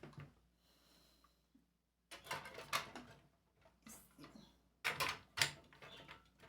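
Small items clicking and knocking as they are set down and shifted on the shelves of a small perfume organizer stand. A quick run of clicks starts about two seconds in, with a few sharper knocks around five seconds.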